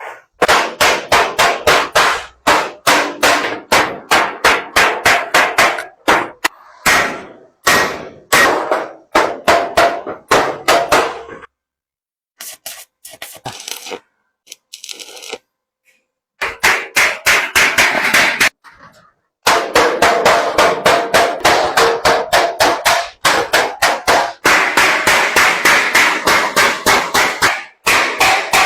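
Hand hammer striking brass sheet in quick, steady runs of about four blows a second, folding the rim over a steel reinforcing rod; the blows stop for a few seconds near the middle, then resume.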